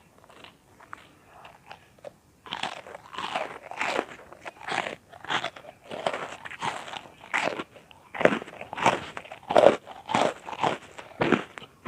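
Close-miked crunching and chewing of butter bread popcorn, small crisp cubes of buttered toasted bread. Faint small crackles at first, then loud crunching bites about twice a second from about two and a half seconds in.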